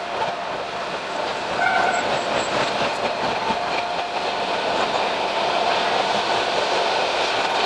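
Train running noise of a Hokusei Line narrow-gauge train: a dense, fast clatter of wheels on the track with a faint steady whine.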